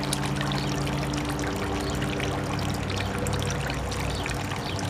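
Water pouring and trickling steadily, with background music holding long notes underneath.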